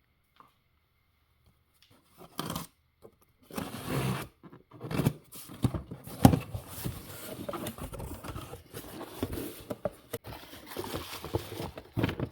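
Packaging being torn and crinkled open by hand to take out a new ignition coil: irregular rustling and tearing with small clicks and scrapes, starting about two seconds in.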